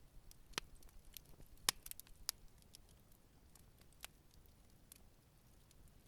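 Wood campfire crackling: scattered sharp pops and snaps over a faint low rumble, a cluster of louder pops in the first two and a half seconds, the strongest about a second and a half in, then only a few.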